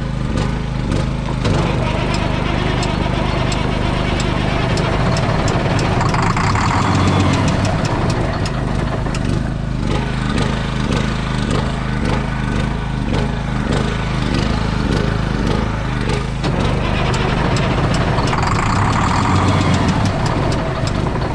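An engine running steadily, with a rapid regular pulsing.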